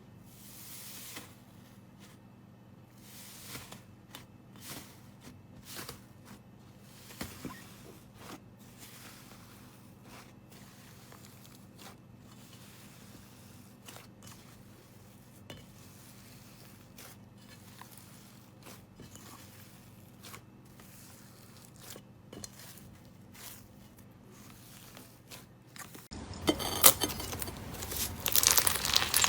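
Slime being played with: scattered soft clicks and small sticky pops. About 26 seconds in, a much louder, dense crackling crunch begins.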